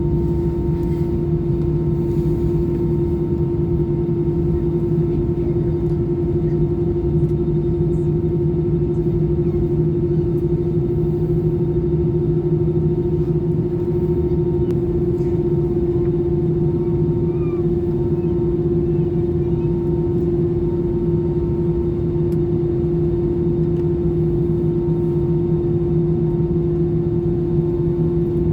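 Steady drone inside an Airbus A320 passenger cabin: jet engine and airflow noise with a deep hum and a steady higher tone above it, unchanging in pitch and loudness.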